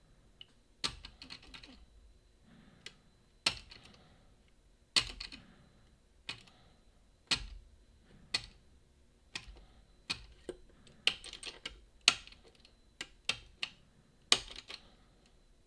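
Irregular sharp metallic clicks and short rattling clusters of lock picks and tension tool working the levers of a Boda 429 eight-lever deadbolt lock.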